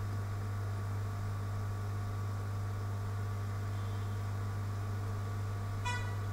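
Steady electrical hum with a faint hiss, unchanging throughout. A brief sharp click-like blip comes near the end.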